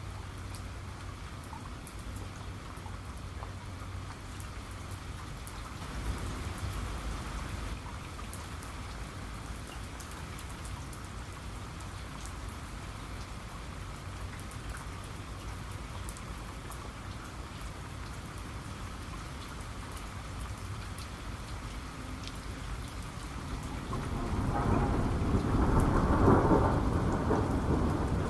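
Steady rain with individual drops ticking, joined by thunder: a low rumble about six seconds in, then a louder, longer roll of thunder building near the end.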